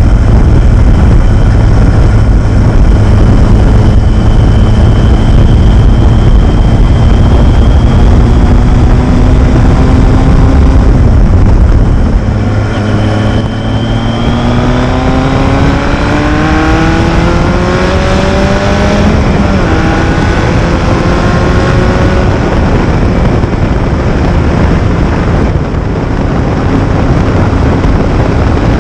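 Kawasaki Z1000 chopper's inline-four engine through straight-pipe open exhaust, running under way. The note climbs slowly at first, drops back about twelve seconds in, then revs rise strongly for several seconds before falling again near twenty seconds, as through a gear change, and holds steadier after.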